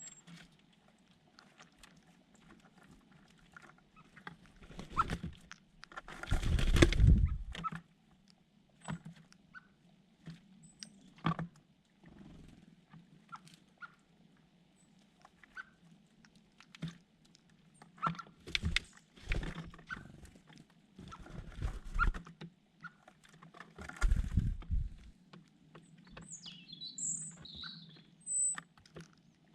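Small birds close to the microphone: scattered tapping and scuffling with several heavier rustling bursts, and a few short high chirps near the end.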